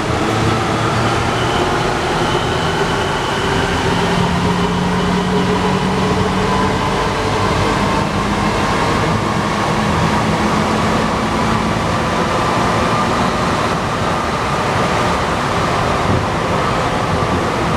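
Alstom NS-93 metro train running, a steady loud rumble with several faint motor tones that drift slowly up and down in pitch.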